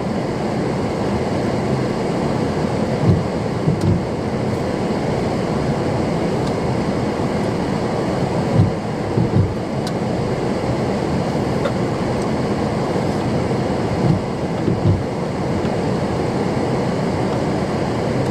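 Strong storm wind rushing over the microphone, with a low buffeting thump every few seconds.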